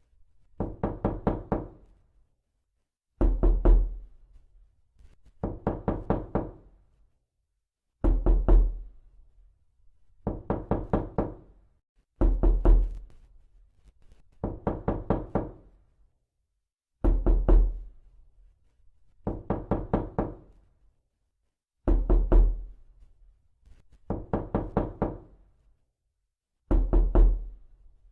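Knuckles knocking on a door in a repeating pattern. A short, heavy burst of about three knocks is followed by a quicker run of about five lighter knocks, and the pair comes round about every five seconds.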